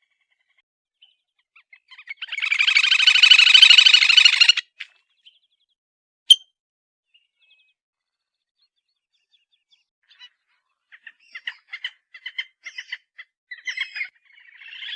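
Grebe (titihan telaga) giving a fast, loud whinnying trill of about two seconds. Scattered short chirps follow later, and a second trill begins near the end.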